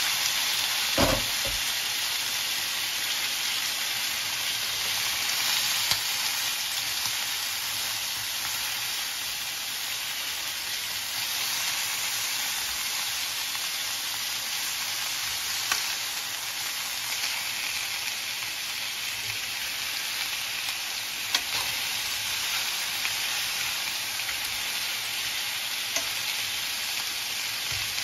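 Chicken wings frying with a steady sizzle in a stainless steel pan. A few sharp clicks of metal tongs against the pan come as the wings are turned, and there is a knock about a second in.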